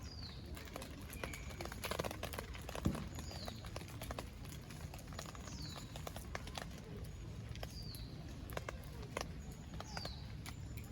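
Wood fire crackling, with irregular sharp pops and snaps over a low steady rumble. A bird repeats a short falling call about every two seconds.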